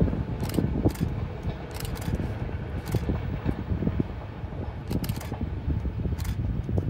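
Long diesel-hauled express train with a WDP4D locomotive receding into the distance: a steady low rumble, with several sharp clicks scattered through.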